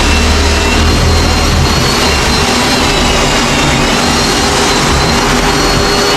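An electric motor running steadily and loudly, with a thin high whine over a dense rushing noise and a low hum, typical of a power tool or extraction fan used in tub repair work.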